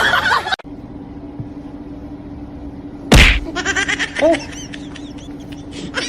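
A sharp slap about three seconds in, followed by a quick run of short, high chirps over a steady low hum.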